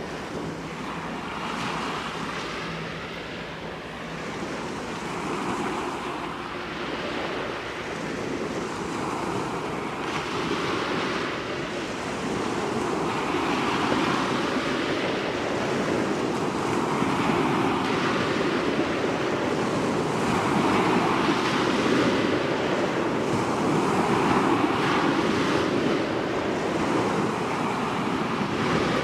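Waves breaking and washing up the beach, one swell every two to three seconds and growing louder, with wind on the microphone.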